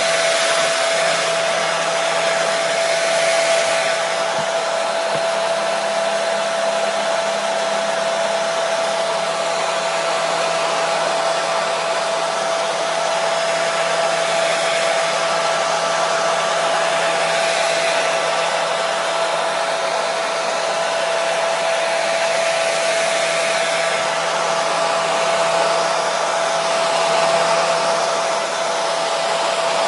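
Hair dryer blowing continuously: a steady rush of air with a constant whining tone from its motor and fan.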